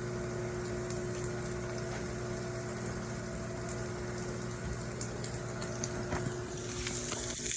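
Salmon and onions frying in a pan: a steady sizzling hiss over a low hum, the sizzle growing louder and brighter near the end.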